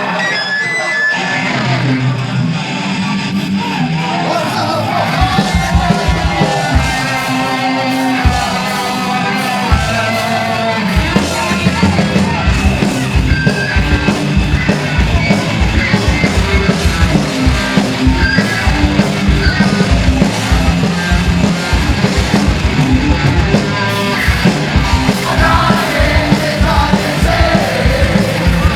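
Live punk rock band playing loud, with distorted electric guitars, bass and fast, driving drums, and a vocalist yelling the lines.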